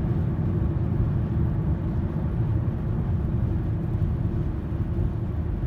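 A car driving along the road, a steady low rumble that does not let up.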